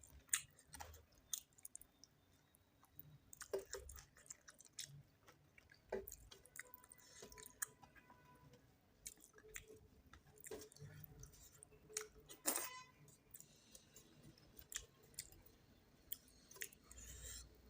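Faint close-up chewing of a person eating chicken curry with rice: irregular soft mouth clicks, the strongest about twelve seconds in.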